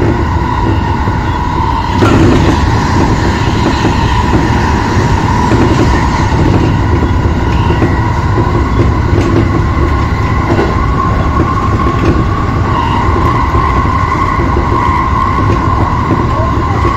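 Electric commuter train running between stations, heard from inside the front car: a steady low rumble of wheels on rail with a steady whine from the traction motors. It gets louder about two seconds in.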